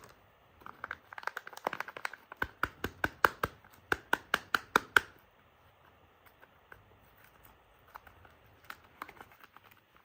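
Soap packaging being unwrapped by hand: a quick run of sharp crinkles and crackles for about four seconds, then a few scattered softer ones.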